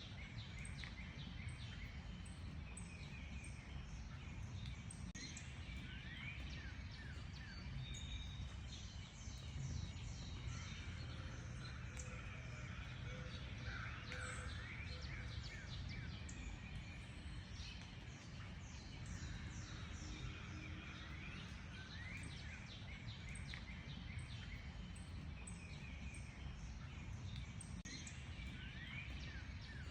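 Several wild birds chirping and singing at once: quick series of short high notes and rising whistles, over a steady low rumble.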